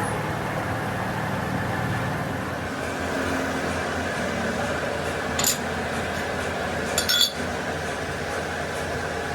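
Metal clinking twice against metal, once about five and a half seconds in and again, doubled, about seven seconds in, over a steady machine hum.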